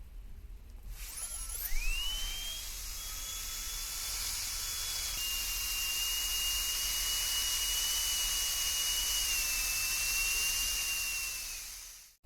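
High-speed dental air-turbine handpiece being test-run after its blocked water-spray holes were cleared: it spins up with a rising whine about a second in, then holds a steady high whine over a hiss, dropping slightly in pitch midway, and winds down near the end.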